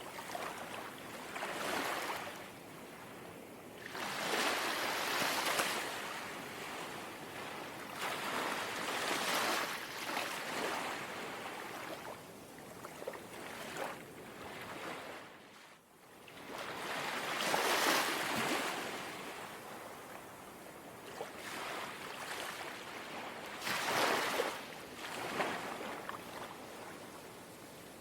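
Calm sea waves lapping at the shore, each small wave washing in as a swell of rushing water every few seconds, with a brief lull in the middle.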